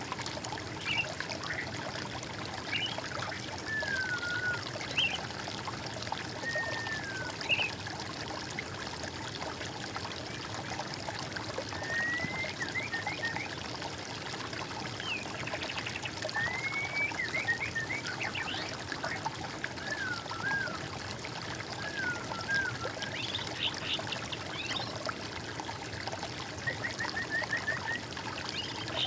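Water trickling steadily, like a small stream, with songbirds singing on and off over it: short whistled phrases, downward-slurred notes and a few quick trills.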